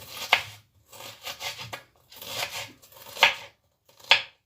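Kitchen knife cutting vegetables on a cutting board: a few sharp knocks of the blade, with rasping, scraping strokes in between.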